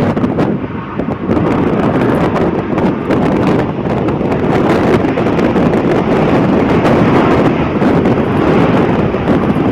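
Airbus A350-900's Rolls-Royce Trent XWB turbofans running at takeoff thrust: a loud, steady rumble of jet noise, with wind buffeting the microphone.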